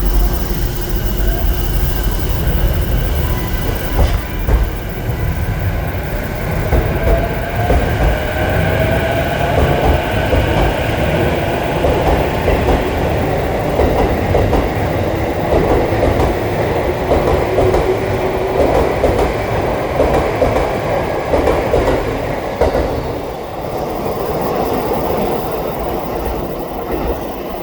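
A JR East E233-7000 series electric train pulls away from a platform. Its inverter and traction motors give a whine that climbs in pitch as the train gathers speed, over the steady running noise of the cars going past. The sound eases off somewhat near the end as the train leaves.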